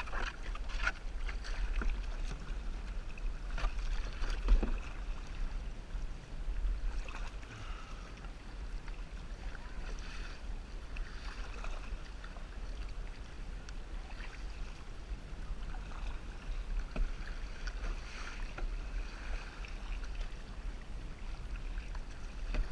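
Kayak paddle strokes in sea water: soft splashing and dripping that swells every second or two as the blades dip, over a steady low rumble.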